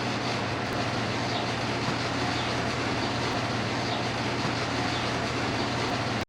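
Steady mechanical whir and hum with a constant low drone and a faint higher whine, unchanging throughout.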